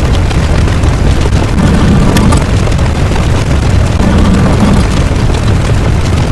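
A loud, continuous deep rumble, a sound-effect noise heavy in the low end, swelling slightly about every two and a half seconds.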